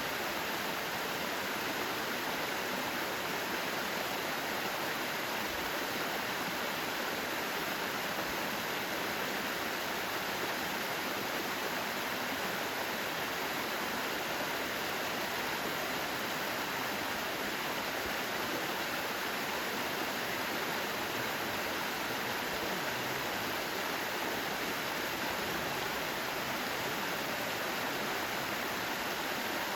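Mountain valley stream, water flowing and rushing in a steady, unbroken wash.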